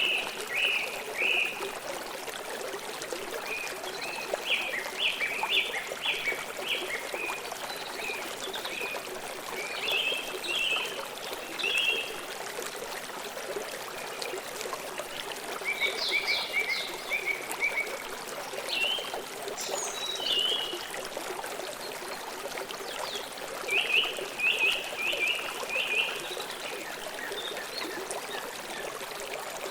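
A river or stream flowing steadily, with birds calling in short bursts of quick repeated high chirps every few seconds.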